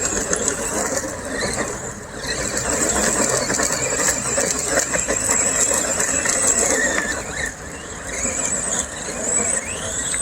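Brushed electric motors and gear drivetrains of two RC monster trucks running at speed: a high-pitched whine over rough rattling noise, rising in pitch as they accelerate near the end.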